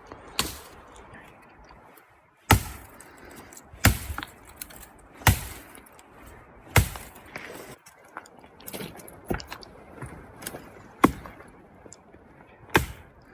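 A series of sharp blows: four strong ones about a second and a half apart, then lighter, quicker knocks, and two more strong blows near the end.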